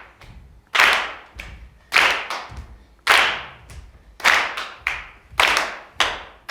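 A group clapping a steady rhythm, one sharp beat about every second, each beat ringing on briefly in the room.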